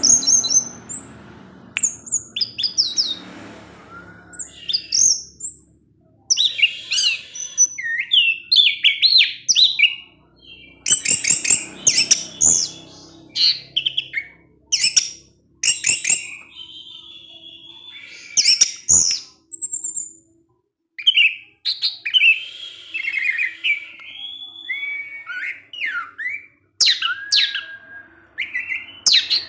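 Orange-headed thrush (anis merah) singing a long, varied song of quick whistled phrases and chattering notes, broken by short pauses.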